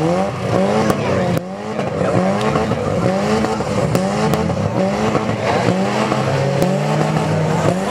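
Several demolition derby car engines revving up and down over and over, overlapping, with a few sharp knocks among them.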